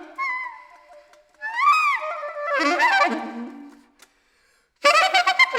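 Solo saxophone playing short phrases of pitched notes that bend and swoop up and down in pitch. After a brief pause near the end, a loud, rapidly stuttering note begins.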